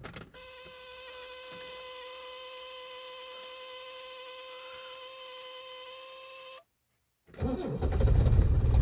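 A steady electrical whine for about six seconds that cuts off suddenly; then the 1978 Mercedes 300D's five-cylinder diesel cranks and catches on a cold restart after stalling, running loud and rough near the end.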